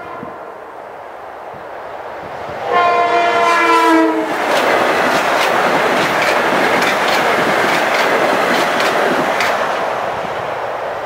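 Metro-North Bombardier M7A electric train sounding its horn in one blast of about a second and a half, dropping slightly in pitch as it reaches the crossing. It then rushes past with its wheels clacking over the rail joints, and the rumble fades near the end.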